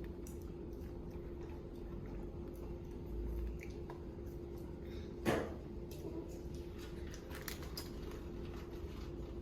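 Quiet eating sounds: chewing and small clicks of food and packaging being handled. One sharp knock comes about five seconds in, over a steady low hum.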